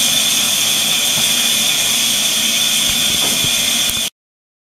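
Hair dryer running steadily with a high whine, stopping abruptly about four seconds in.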